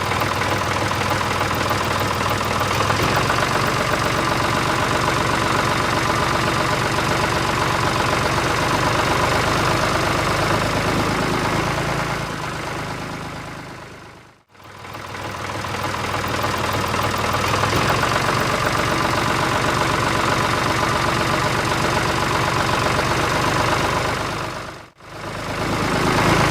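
Tractor engine running steadily with a knocking putter. It fades out and back in twice, about halfway through and near the end.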